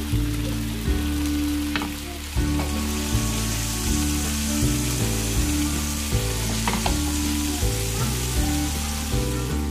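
Chicken tikka skewers frying in oil in a grill pan, a steady sizzle with small pops, over background music.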